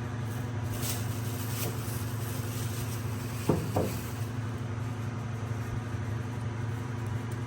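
A steady low mechanical hum, with two short clicks about three and a half seconds in.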